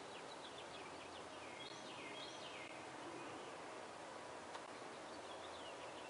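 Faint steady background noise with small birds chirping: repeated short, falling chirps, in clusters about two seconds in and again near the end.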